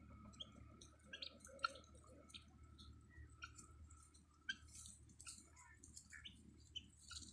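Faint scattered clicks and short high chirps from poultry birds, over a low steady hum.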